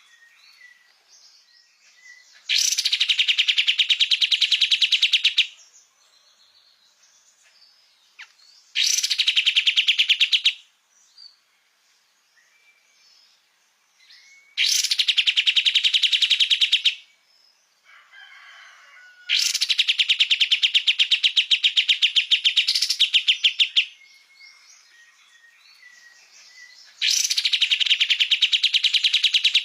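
A kapas tembak bird singing in repeated bouts of fast, rapid trills, five bouts each lasting a few seconds with short pauses and faint calls between them.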